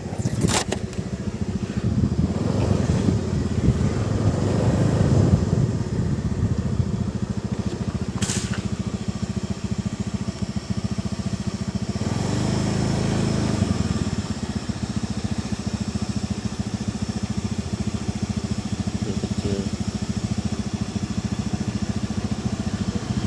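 A small engine running steadily, with a couple of sharp clicks, one just after the start and one about eight seconds in.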